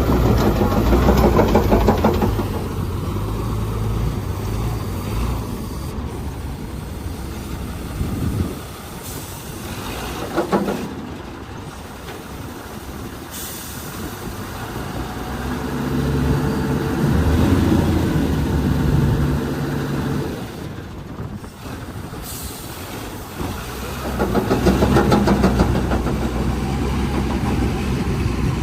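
Diesel engine of an Ottawa single-axle yard spotter truck running with a steady low rumble. It gets louder for a few seconds twice: around the middle and again near the end.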